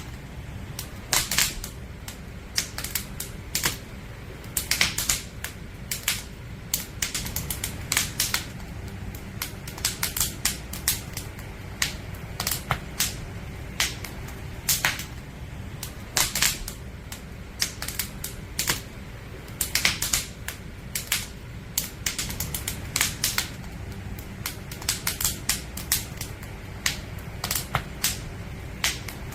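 Wood fire crackling: irregular sharp pops and snaps of burning firewood, sometimes several in quick succession, over a steady low rumble.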